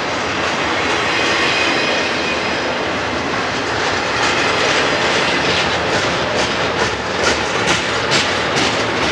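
Double-stack intermodal freight cars rolling past: a steady rumble of steel wheels on rail, with a run of rhythmic wheel clicks, about two to three a second, from about six seconds in.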